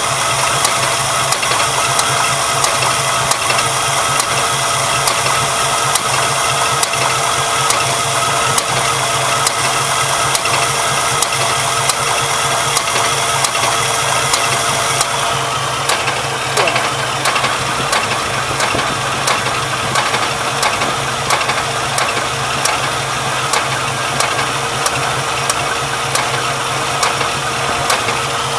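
Pontiac 455 V8 idling with a sharp popping knock repeating at an even pace. This is an abnormal noise that a carburetor swap has not cured, and the owner thinks it sounds like a misfire.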